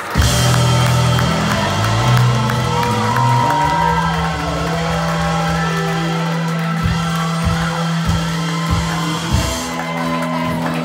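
Live rock band playing with the crowd cheering, the instruments holding sustained notes. From about seven seconds in come several evenly spaced low hits from the drums or bass.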